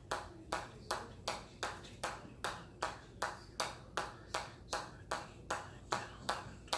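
A hammer striking metal in a steady, even rhythm of about two and a half sharp, ringing blows a second: a counted run of repetitions in a hammer-control drill.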